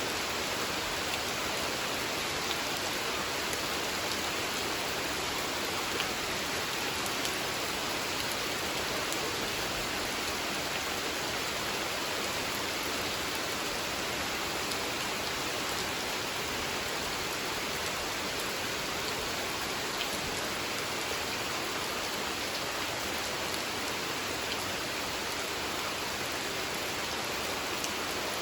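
Steady rain falling on a pond's water surface, an even hiss with scattered drop ticks.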